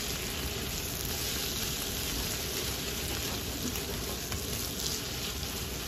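Sambal ebi (chopped chillies, shallots and dried shrimp) sizzling steadily as it fries in a pan, stirred and scraped through with a spatula, being cooked down until dry.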